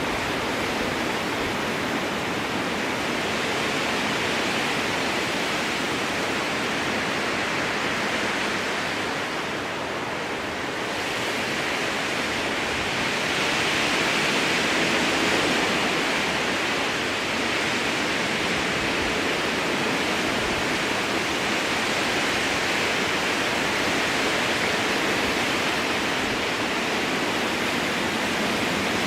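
Strong wind blowing through a spruce forest, a steady rushing in the trees. It eases slightly about ten seconds in and swells again a few seconds later.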